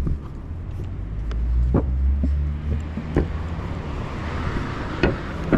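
A car going by on the road: a low engine and tyre rumble through the middle, with rising road noise in the second half. Several short knocks are heard over it.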